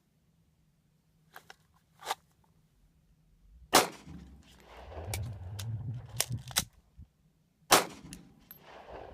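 Glock 19 Gen4 9mm pistol firing: two loud shots about four seconds apart, about a third of the way in and near the end, with fainter sharp clicks and cracks before and between them.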